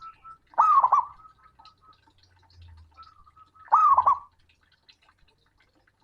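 Male zebra dove (perkutut) cooing loudly: two short phrases about three seconds apart, each a few quick rolling notes, a male's call to a rival. A faint steady high tone runs between the calls.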